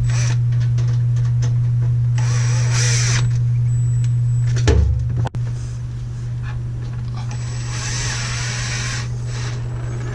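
A power drill or driver runs in two bursts, about a second and a second and a half long, with a wavering whine, over a steady low hum.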